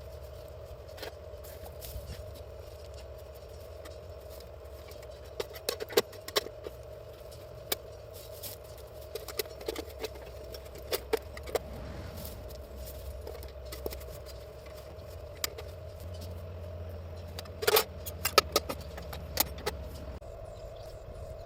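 Light metallic clinks and rattles of camp cookware being handled, scattered irregularly, with the loudest cluster near the end, over a steady low hum.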